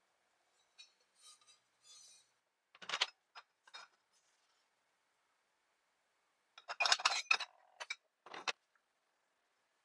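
Metal pieces clinking and knocking together as they are handled, in two main clusters: one about three seconds in and a louder one about seven seconds in.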